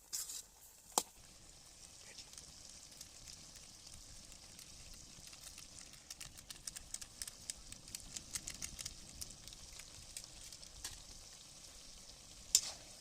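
Chicken and spice masala frying in a pan: a steady sizzle with many small crackles, and a sharp knock about a second in and another near the end.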